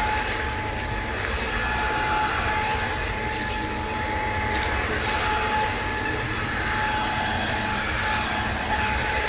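Bissell ICON Pet cordless stick vacuum running steadily, its motorised power nozzle brush roll working over wall-to-wall carpet: an even rushing noise with a thin steady whine.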